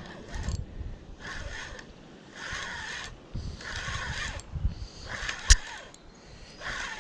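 Fishing line being retrieved in repeated zipping pulls, about one a second, while a striped bass is on the line, with wind buffeting the microphone. A single sharp knock about five and a half seconds in.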